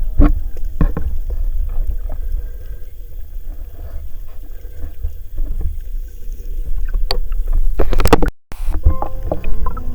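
Underwater sound picked up by a diver's camera: a steady low rumble with scattered sharp clicks, and a louder rushing burst about eight seconds in that cuts off abruptly.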